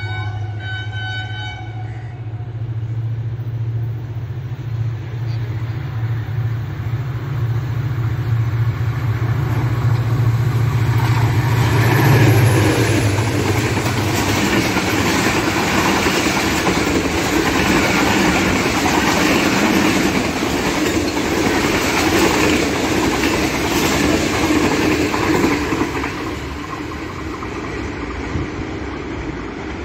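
Passenger train hauled by an HGMU-30 diesel-electric locomotive passing at speed. Its horn sounds at the start and stops after about a second and a half. The locomotive's deep engine drone builds to its loudest about twelve seconds in and cuts off as it goes by, then the coaches clatter over the rails and fade away near the end.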